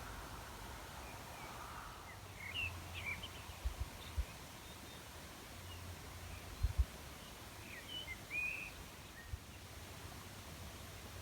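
Songbirds chirping in short bursts of quick calls, twice, over a faint outdoor hush, with a few soft low thumps.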